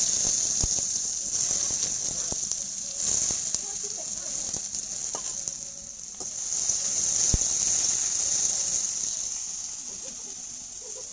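Cut potato sticks sizzling in hot oil in a metal karahi, the sizzle starting sharply as they are dropped in and swelling again when they are stirred. A few clinks of a spatula against the pan.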